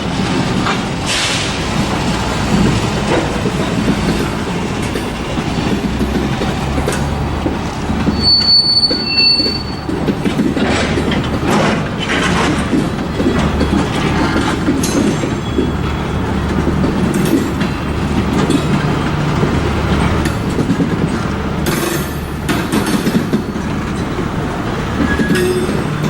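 Train cars rolling past, wheels clattering over rail joints with a steady rumble. A brief high wheel squeal comes about eight seconds in.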